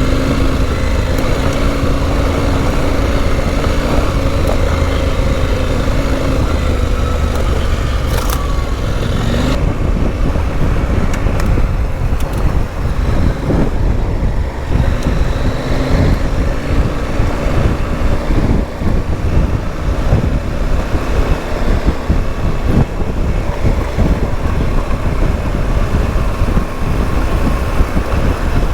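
Motorcycle engine running under way on a rocky dirt trail, its note rising and falling with the throttle, over a steady low rumble of wind on the microphone.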